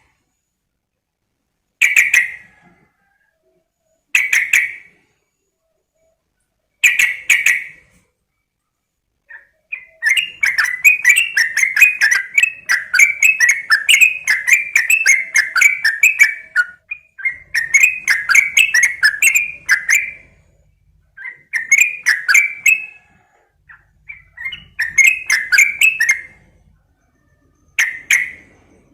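Yellow-vented bulbul (trucukan) calling loudly: three short, separate calls a couple of seconds apart, then from about a third of the way in a long, bubbly chattering song in bursts of two to six seconds.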